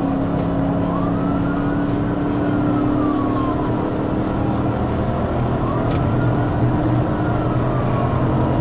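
Police car siren in a slow wail, rising and falling about every four seconds, over the steady engine and road noise of a patrol car in a high-speed pursuit.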